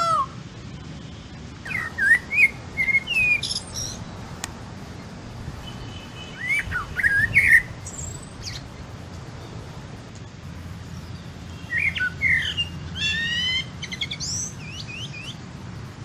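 Several songbirds chirping and calling in short whistled phrases that come in three spells, about two seconds in, around seven seconds, and again from about twelve seconds, over a steady low background hum.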